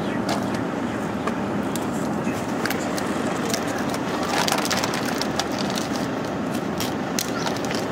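A car's engine running with a steady hum, heard from inside the cabin, with scattered sharp clicks over it.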